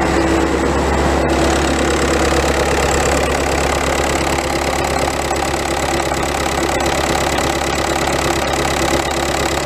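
VW 1.9 TDI pumpe-düse four-cylinder diesel (BLS) idling steadily just after starting. It is running again after a crank-no-start fault, with its unit injectors freshly resealed with Viton O-rings.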